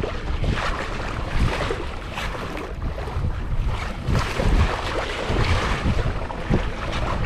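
Strong wind buffeting the microphone in uneven gusts, a rough low rumble over a steady rushing hiss.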